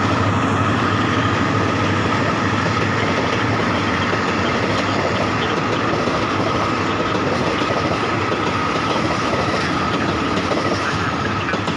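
Passenger train rolling by on the track, its wheels clacking over the rail joints in a steady loud run of noise, with a thin steady whine above it.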